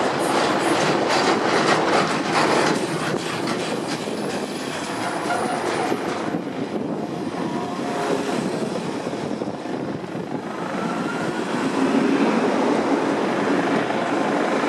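Freight train of loaded steel-coil wagons clattering past over rail joints with some wheel squeal. About six seconds in the clatter gives way to a smoother passing sound as a turquoise passenger diesel multiple unit runs by close alongside.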